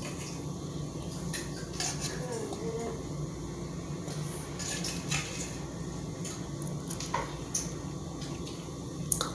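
Cutlery clinking against dishes while eating: scattered light clicks and clinks, one ringing briefly about seven seconds in.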